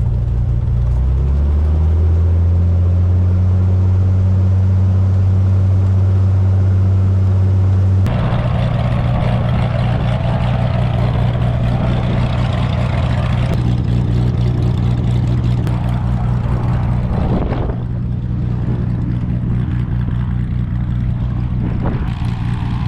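Cessna light aircraft's piston engine and propeller running steadily in flight, with the pitch and tone shifting suddenly about eight seconds in and again near seventeen seconds.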